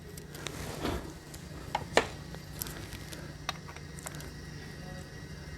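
Hand tools working on a transmission valve body as its screws are undone: scattered light metallic clicks, a brief scrape just under a second in and a sharper clink about two seconds in, over a steady low hum.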